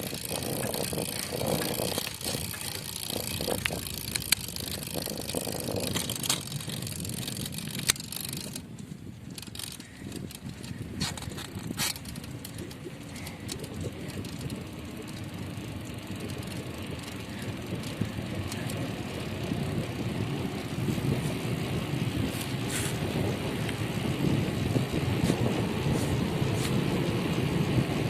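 Bicycle rolling downhill along a street: the tyres and rushing air make a steady noise that builds and gets louder through the second half, with a few sharp clicks and rattles from the bike early on.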